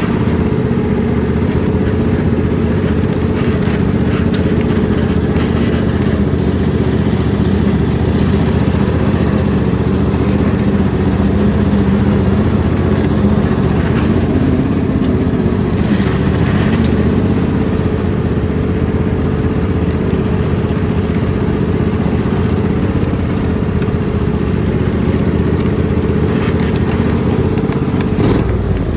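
Riding lawn mower engine running steadily, with a brief dip in pitch near the end.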